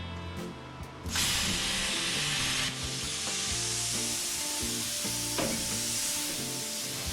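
BestArc plasma cutter firing about a second in: a loud steady hiss of the arc and compressed air cutting metal, fuller for the first second and a half, then thinner and higher. It is a fast-travel-speed test cut.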